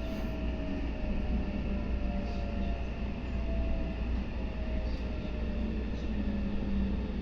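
Meitetsu 3150 series electric train running between stations, heard from inside the lead car: a steady rumble of wheels on rail with a faint whine that slowly falls in pitch.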